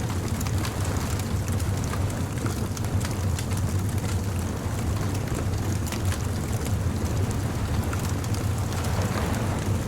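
Bonfire crackling, with many small sharp pops and snaps over a steady low rumble.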